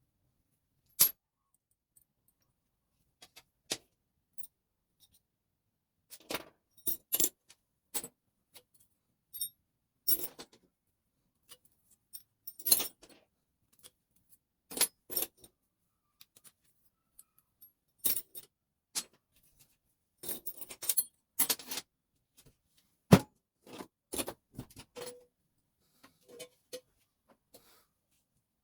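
Irregular metallic clicks and clinks as small metal parts of a Telemecanique fuse switch are handled, pulled apart and dropped, in loose clusters. A sharper knock comes late on.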